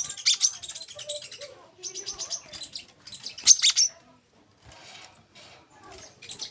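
Brown-throated sunbird singing: rapid runs of high, sharp chip notes and twittering trills, with a brief lull about two-thirds of the way through before fainter notes resume.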